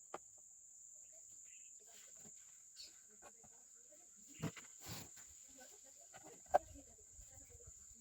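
Steady high-pitched insect trill, like crickets, under a few scattered clicks and knocks; the sharpest knock comes about two-thirds of the way in.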